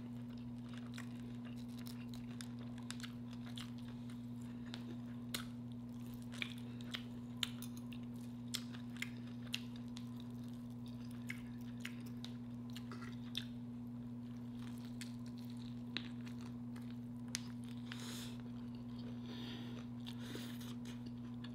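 Close-miked chewing of crispy fried lobster tail, with scattered short crunches and mouth clicks. A steady low hum runs underneath.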